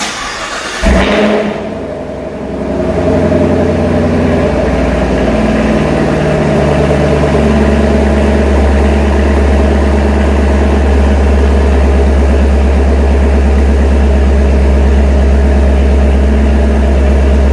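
Chevrolet Camaro SS V8 cold start: the starter cranks briefly, the engine catches with a loud rev flare about a second in, then settles into a steady, deep idle.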